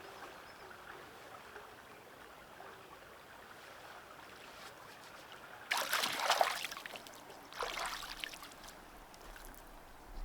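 Faint, steady trickle of running water, with two louder bursts of rustling about six and eight seconds in.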